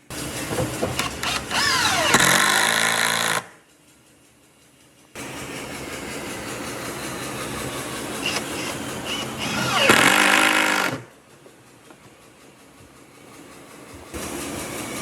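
Power tool motor working on wood in two long bursts, its pitch sweeping down and back up as it takes load; each burst stops abruptly, and a third begins near the end.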